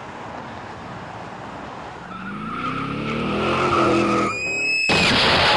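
Car engine revving up with tyres skidding, rising in pitch and getting louder. A short high squeal follows, then a sudden loud crash just before the end.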